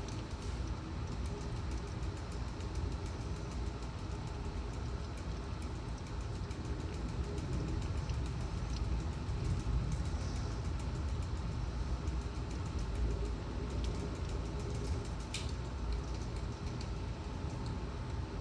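Torrential rain and strong wind gusts of a severe thunderstorm: a steady roar, with a few faint ticks and one sharper click near the end.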